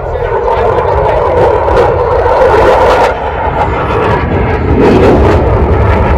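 Loud, steady aircraft engine noise that starts and stops abruptly.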